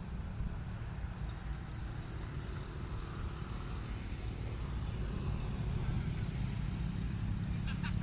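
Helicopter flying low, heard as a steady low rumble of engine and rotor that grows a little louder in the second half.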